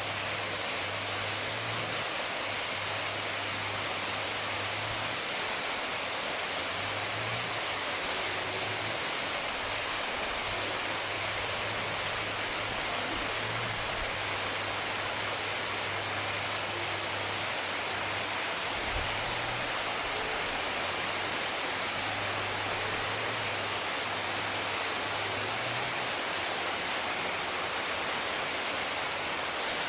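Waterfall: a steady rush of falling water, an even hiss with no change in level.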